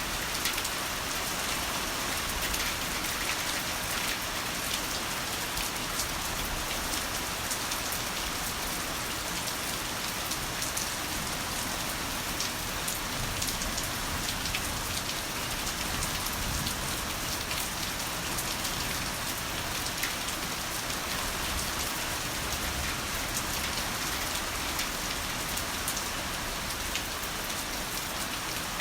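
Heavy rain falling steadily: a dense, even hiss with individual drops ticking sharply through it.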